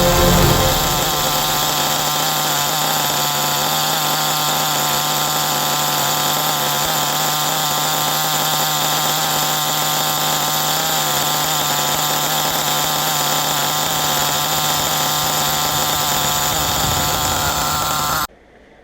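Small two-stroke nitro RC engine running steadily at a constant speed, with a high, buzzing note that hardly changes; it cuts off abruptly near the end.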